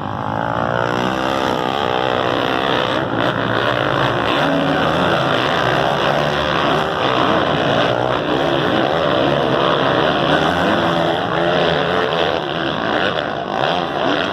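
Several motocross bike engines running and revving at once, their pitches rising and falling over one another in a loud, continuous din.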